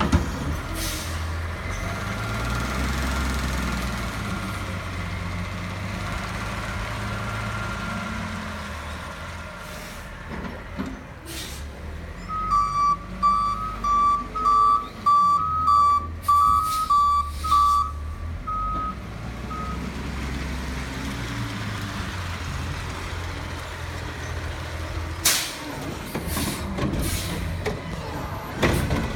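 Garbage truck's diesel engine running, its pitch rising and falling, with a backup alarm beeping steadily for about seven seconds in the middle as the truck reverses. A few short air hisses are heard, the last ones near the end.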